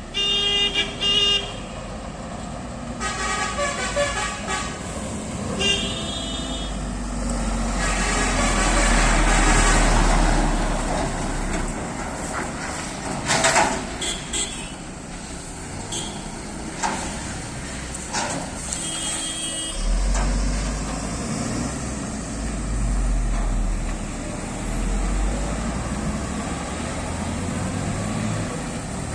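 Road traffic with heavy trucks: horns give several short blasts in the first few seconds and once more past the middle, over diesel engines running and vehicles passing, the loudest pass a third of the way in with a deep rumble.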